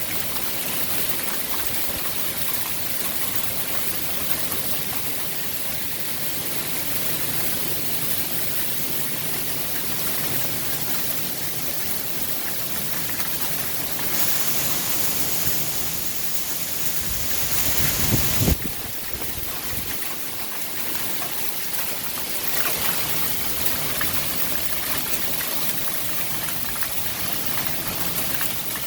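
Heavy rain pouring down in a wind storm, a steady dense hiss. About eighteen seconds in, a brief louder low rumble rises above it.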